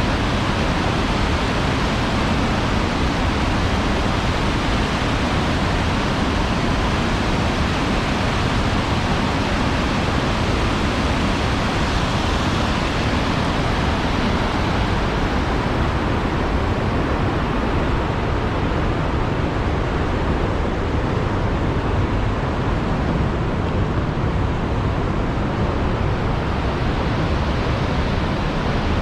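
Steady loud rush of the Tännforsen waterfall, a dense even roar of falling water; its high hiss softens a little about halfway through.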